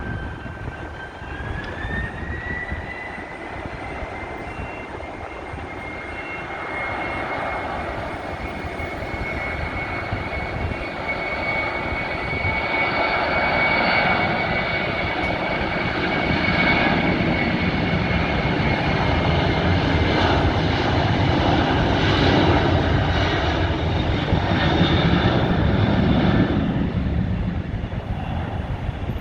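Boeing 767-300 freighter's twin General Electric CF6 turbofans at takeoff power. A whine rises in pitch over the first couple of seconds as the engines spool up, then holds steady. The roar builds to its loudest in the second half and fades away near the end as the jet climbs out.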